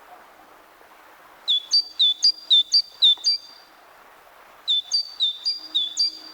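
Great tit singing: two songs of its repeated two-part 'teacher-teacher' note, about four notes a second, the second song starting a little over a second after the first ends.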